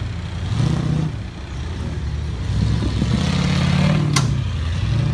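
A car engine running and revving under load, its pitch rising twice, with a single sharp click about four seconds in.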